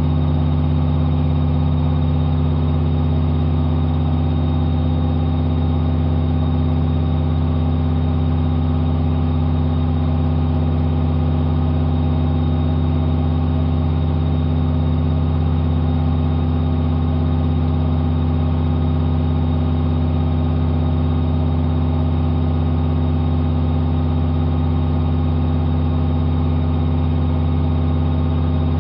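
AEG Lavamat 5210 washing machine spinning its drum at a constant speed, a loud steady motor hum with several low tones that hold unchanged throughout.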